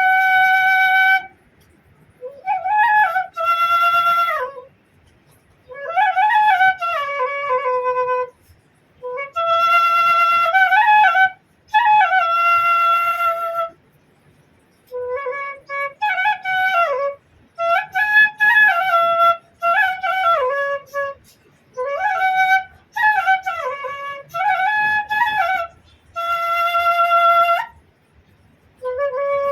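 Bansuri (bamboo flute) played solo: a melody in about eight phrases whose pitch bends up and down, with short pauses for breath between them.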